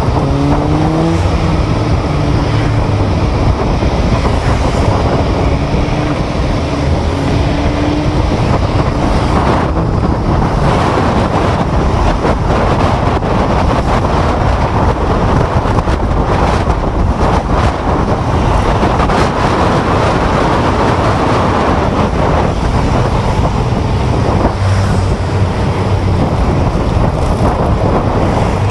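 Loud, steady road and traffic noise of a ride through city streets, with wind on the microphone. A pitched engine-like hum is heard during the first several seconds.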